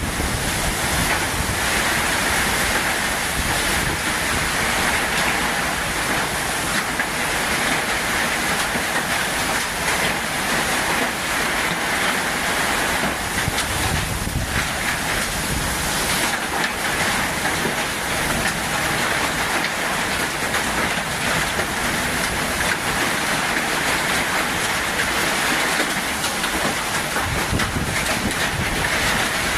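Steady rushing noise of heavy storm rain and wind, holding at an even level throughout.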